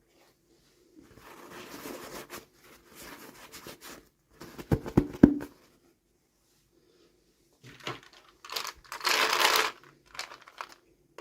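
Toy packaging being torn and crinkled open by hand in two spells of rustling, with a few sharp clicks in between.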